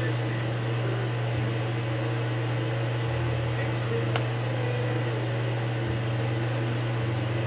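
A steady low hum, like a small motor or fan running, with a single sharp click about four seconds in.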